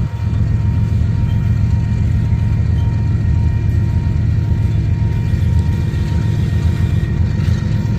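Diesel engines of three Union Pacific General Electric locomotives running as they pull a train out, a steady deep rumble.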